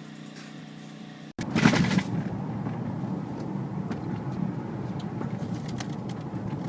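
Street noise with a car: a steady engine hum, then after an abrupt cut about a second in, much louder rumbling noise with a few sharp clicks.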